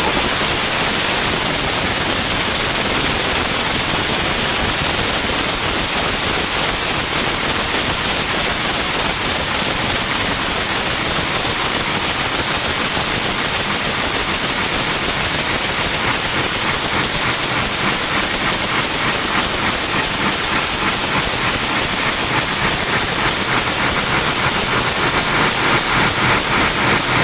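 Ship's engine being started: a loud steady hiss, then from about halfway an even rhythmic pulsing builds and grows stronger near the end as the engine picks up its running beat.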